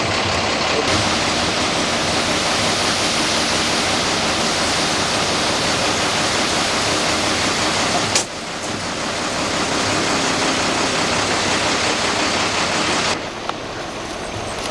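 Rushing floodwater: a steady loud hiss of fast current. It breaks off abruptly about eight seconds in, comes back, and drops quieter near the end.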